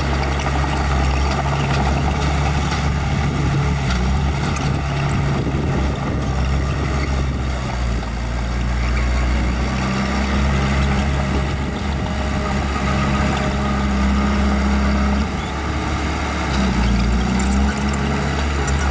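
Small bulldozer's diesel engine running steadily while working, its note shifting a few times as the load changes.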